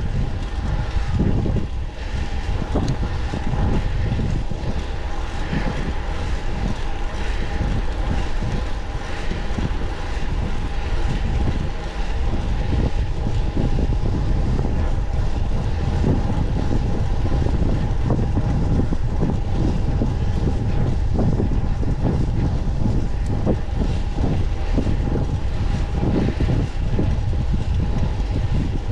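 Wind rushing and buffeting over the microphone of a camera carried on a moving bicycle, a steady low rumble that gusts unevenly, with a faint steady hum above it.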